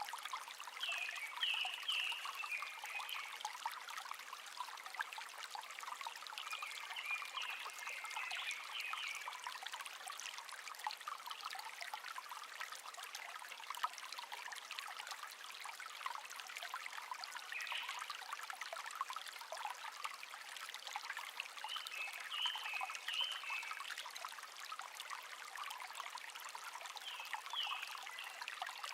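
A babbling stream trickling steadily, with a wild bird singing short high phrases five times, several seconds apart.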